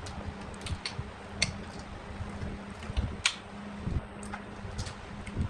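A steady machine hum with scattered light clicks and taps, the sharpest about one and a half seconds in and again past the three-second mark.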